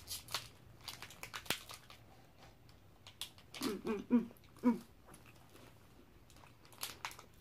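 Crisp chocolate-coated wafer bar being bitten and chewed: sharp crunching clicks, densest in the first two seconds and scattered after. A few short voice sounds come about four seconds in.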